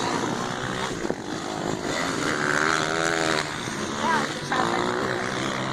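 Motocross dirt bike engines running, their pitch rising and falling as the riders work the throttle, with voices in the background.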